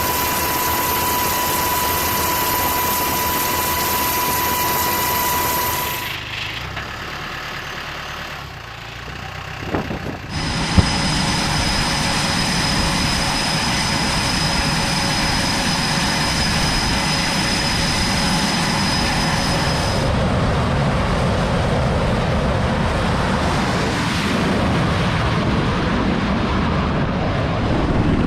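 Steady, loud engine or machinery noise with a few steady whining tones, changing abruptly several times: it drops quieter about six seconds in, returns after a sharp click around eleven seconds, and changes tone again near twenty seconds.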